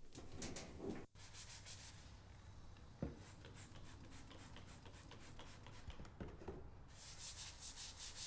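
Stiff plastic-bristled scrub brush scrubbing a wet tile floor in quick back-and-forth strokes, after a second of clothes rustling as laundry is handled. A single knock about three seconds in.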